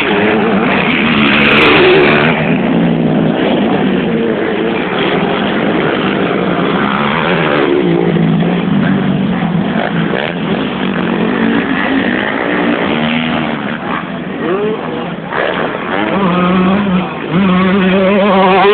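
Several motocross motorcycle engines revving, their pitch rising and falling over and over as the bikes accelerate and shift on the track.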